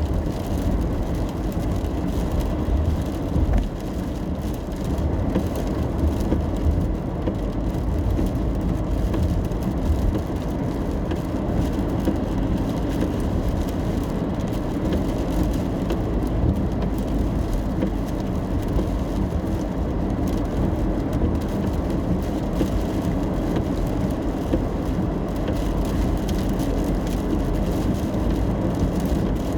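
Steady road and engine noise inside a moving car in the rain, with rain on the car body.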